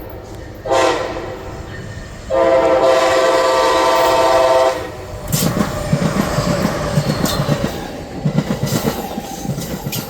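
Locomotive horn sounding a short blast about a second in, then a long blast of a bit over two seconds. After that a passing train's wheels clatter over the rails in an uneven run of thumps.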